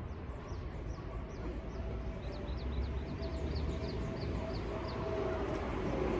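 A bird calling a rapid series of short, high, falling chirps, several a second, which stop about two-thirds of the way in, over a steady low rumble.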